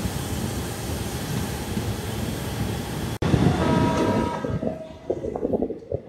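Passenger express train running alongside a station platform, heard from an open coach doorway: a steady rush of wheel and wind noise. About halfway through the sound cuts abruptly to a quieter, uneven low clatter with a brief faint steady tone.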